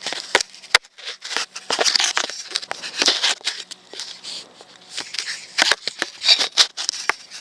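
Close rustling and crackling with many sharp clicks, in uneven bursts: handling noise as hands and clothing move right against the camera's microphone.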